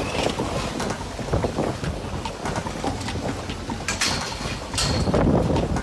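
Summer storm wind gusting hard across the phone's microphone, rumbling and buffeting, with scattered short knocks and rattles and two brief high scrapes about four and five seconds in.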